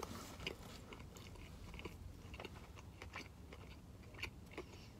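A person chewing a mouthful of steak sandwich with the mouth closed: faint, irregular soft clicks and smacks.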